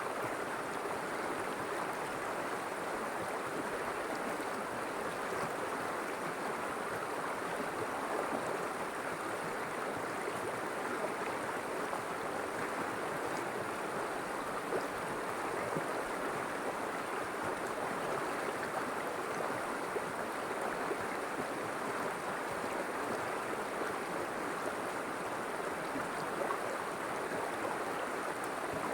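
River water flowing, a steady, even rush with a few small splashes.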